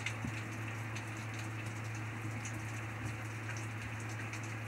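Steady rain falling, an even hiss with scattered sharper drops ticking close by, over a steady low hum.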